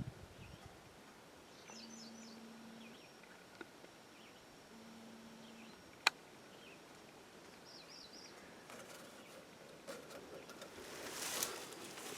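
Quiet woodland ambience with a few faint bird chirps and two brief low steady hums, a single sharp click about six seconds in, then footsteps rustling through brush and undergrowth growing louder near the end.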